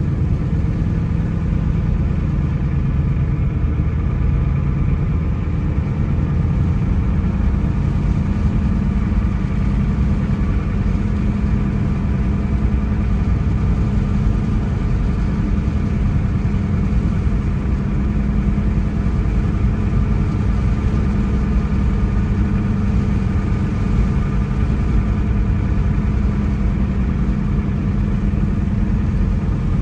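Car driving at a steady speed: a steady low rumble of engine and road noise, with faint engine tones above it and no changes.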